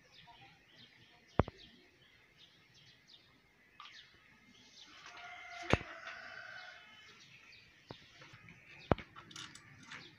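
Small birds chirping on and off, with three sharp clicks, about a second and a half in, near the middle and near the end, from tools and engine parts being handled.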